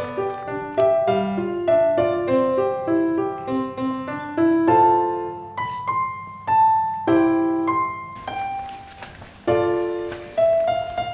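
Background piano music: a gentle melody of single notes and chords, thinning briefly about two-thirds of the way through.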